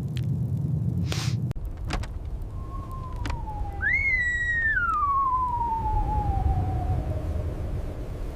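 A single long wolf howl that dips, rises sharply and then slowly falls away, over the low rumble of blizzard wind.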